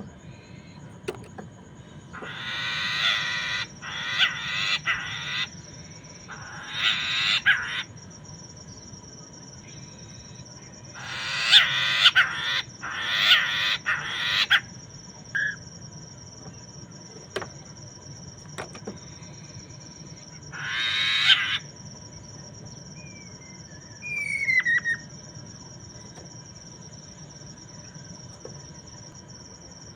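Poksay mandarin calling: harsh, raspy bursts of about a second each, given in clusters (around 2–5 s, 7 s, 11–14 s, 21 s and 24 s) with pauses between, and a few short whistled glides near the end of the calling. A steady high thin tone sits underneath.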